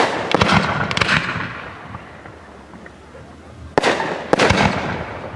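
Aerial fireworks display: shells bursting with sharp bangs followed by crackling and a rumbling echo, in two clusters, one at the start and another a little under four seconds in, with a quieter lull between.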